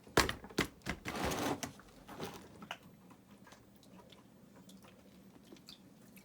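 Several sharp knocks and a short scrape in the first two seconds, then light scattered ticks: river rock and mortar being worked by hand while the stones are laid into a hearth base.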